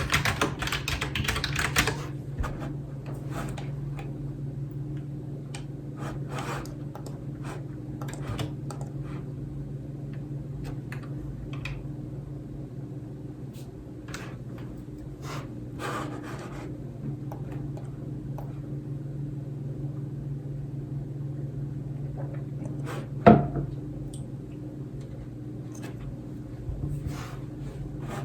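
Computer keyboard typing in a quick burst, then only scattered single key clicks and taps, with one louder knock about three quarters of the way through, over a steady low hum.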